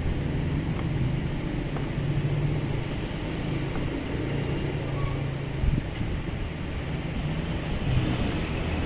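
A motor vehicle engine running steadily, with a few light knocks, one louder about two-thirds of the way through.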